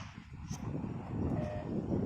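Strong wind buffeting the microphone in a low, uneven rumble, while the echo of a shotgun's two shots fades at the start. A faint click comes about half a second in.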